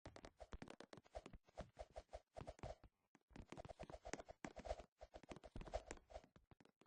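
Faint, rapid clicks and taps in close succession, with short pauses.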